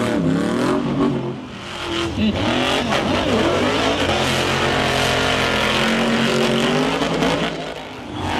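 Monster truck engine revving hard under heavy throttle, its pitch rising and falling. The throttle is briefly let off about a second and a half in and again near the end.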